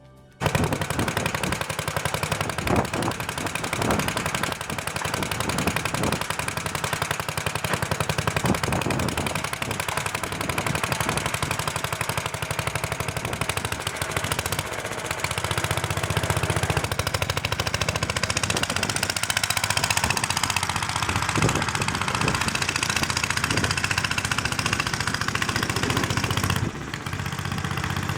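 8-horsepower Briggs & Stratton single-cylinder engine on a Mayrath mini tractor, running with a rapid, even firing beat. It cuts in suddenly at the start and dips briefly near the end.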